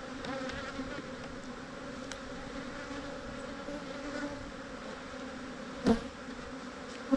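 Steady buzzing of a large honeybee colony, opened and disturbed as its boxes are taken apart, the bees defensive and aggressive. A single sharp knock sounds about six seconds in.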